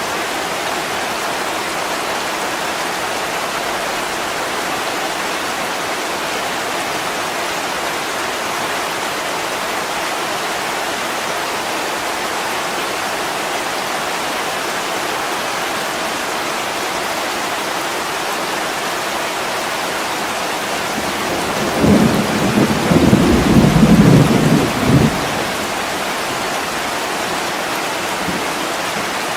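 Heavy rain pouring steadily on a window pane. Near the end, a low rumble of thunder swells for about three seconds and fades back into the rain.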